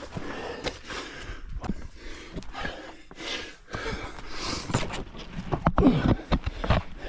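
A hiker breathing hard and grunting with effort while scrambling up rock, with irregular scuffs and knocks of shoes and hands on the rock and the handheld camera. The effort sounds come loudest about six seconds in.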